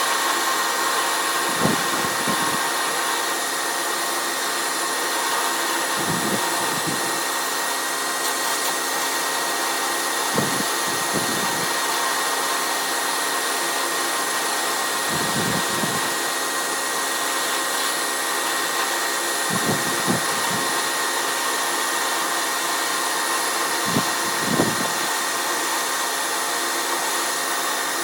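Steady whir of a running shop machine, with a short low knock about every four to five seconds.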